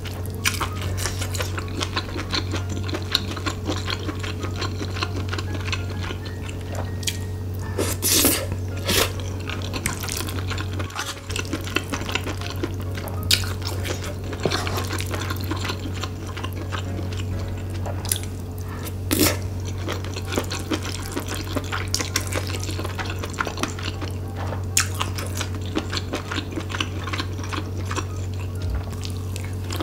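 Close-miked wet chewing and mouth sounds of someone eating spicy fried rice with octopus and tripe, with a wooden spoon scraping and tapping the pan, over a steady low hum.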